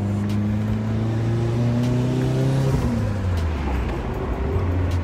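A 1989 Nissan Silvia's engine heard from inside the cabin while driving. It pulls with its pitch rising steadily, drops sharply a little under three seconds in, and then runs lower and steady.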